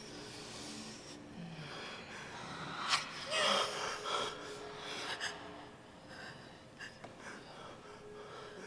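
A person's breathing, with a sharp click about three seconds in and a louder breathy burst just after it.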